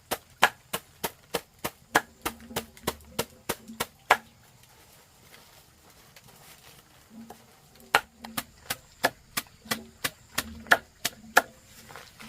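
Knife chopping on a wooden board in quick, even strokes, about three a second: a run of about four seconds, a pause of a few seconds, then another run.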